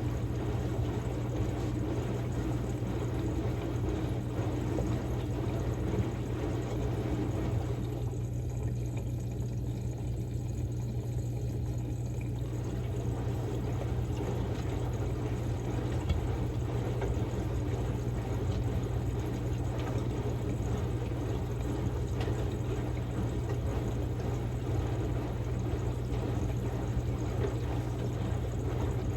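Samsung Grande washing machine running a quick-wash cycle: water pouring and splashing in the drum over a steady low hum. The higher splashing thins out about eight seconds in and comes back some four seconds later.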